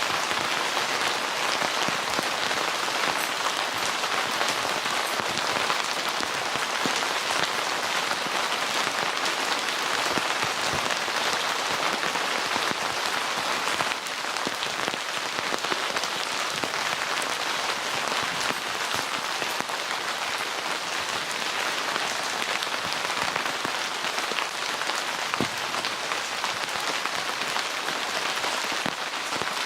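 Steady rain falling, with a few louder single drop hits standing out now and then.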